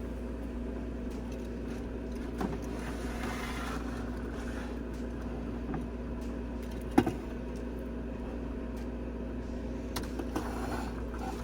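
A few light clicks and one sharp knock about seven seconds in, from small plastic pieces and items being handled and set down on a desk, over a steady background hum.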